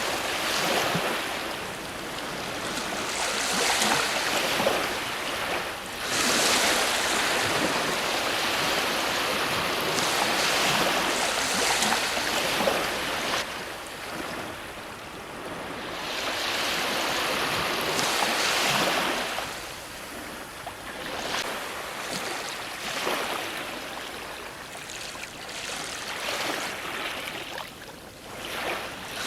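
Ocean waves breaking on a shore, the surf rising and falling every few seconds with repeated swells of rushing water.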